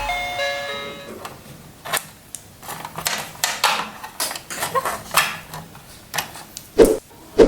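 Marbles clattering along a marble run: an irregular run of sharp clicks and knocks, with two louder thuds near the end. A short tinkling jingle dies away about a second in.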